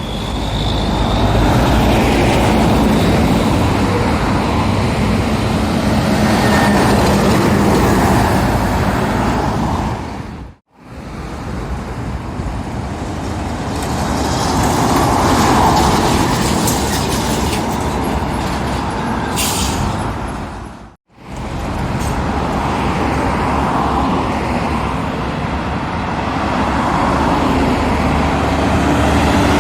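Heavy lorries and road traffic passing, with engine and tyre noise. It comes as three separate stretches, cut off abruptly about 10 and 21 seconds in.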